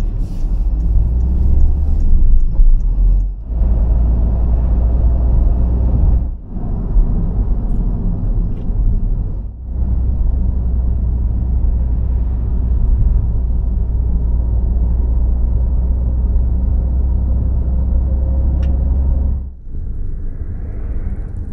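A car on the road, with steady driving noise and a deep rumble. It breaks off abruptly several times where separate stretches of driving are cut together.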